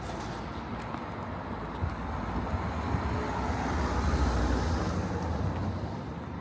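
A road vehicle passing by, its rumble swelling to a peak about four seconds in and then fading.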